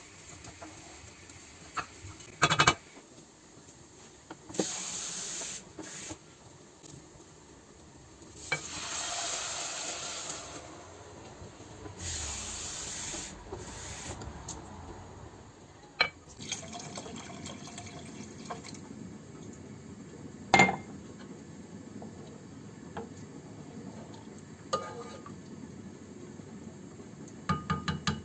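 Kitchen sounds: water running in three short spells of a second or two each, with a few sharp knocks and clinks of dishes in between.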